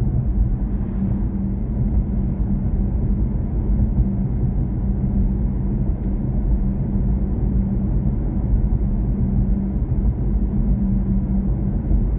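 Steady low road and tyre rumble inside the cabin of a moving BMW i4 M50, an electric car with no engine note, with a faint steady hum under it.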